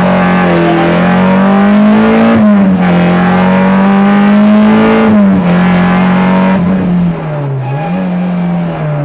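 Peugeot 205 Rallye's 1.3-litre four-cylinder engine driven hard, heard from inside the cabin: the revs climb steadily and drop sharply as it shifts up, about two and a half and five seconds in, then hold before easing off briefly near the end.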